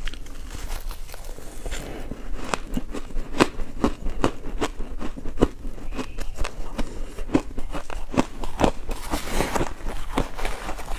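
Ice being bitten and chewed close to the microphone: a dense run of irregular sharp crunches and cracks.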